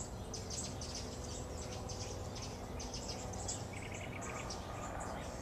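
Wild birds chirping and calling: many short high notes, with a quick rapid trill about four seconds in, over a steady low rumble of background noise.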